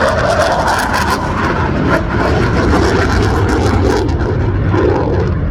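Twin-engine CF-18 Hornet jet flying its display, a loud steady jet roar with a crackle through the first few seconds that then eases.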